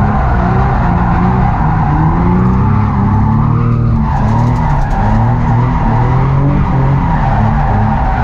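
Drift car engine revving up and down over and over through a drift run, with the tyres squealing and sliding.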